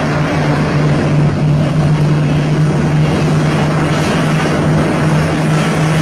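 A loud, steady engine drone with a constant low hum and a rushing noise, unchanging throughout.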